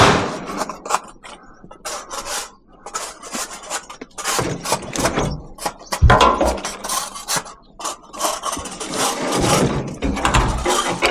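Chairs being dragged and handled as scrap: irregular scraping and rubbing with short knocks, and a heavier knock about six seconds in.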